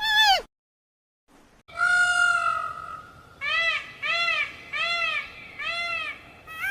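A series of animal calls: one long steady call, then four short calls that rise and fall in pitch, evenly spaced, with abrupt cuts to silence between clips.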